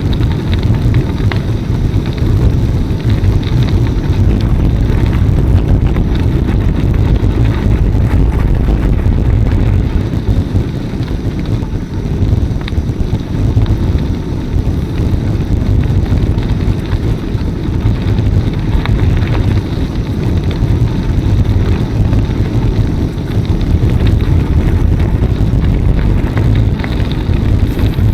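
Wind buffeting the camera microphone while riding a bicycle: a loud, steady low rumble with a few faint ticks through it.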